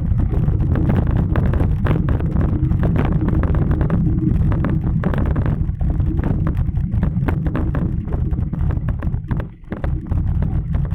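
Wind buffeting the microphone while riding a bicycle: a loud, steady low rumble with crackles, dropping briefly about nine seconds in.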